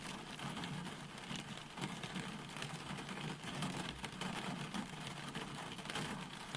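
Steady roadside rain: an even hiss of falling rain with a low, wavering rumble underneath.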